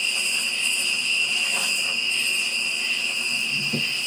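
Night insects: a steady, high cricket trill, with a higher buzzing chorus that swells and fades every second or so. A brief soft low rustle comes near the end.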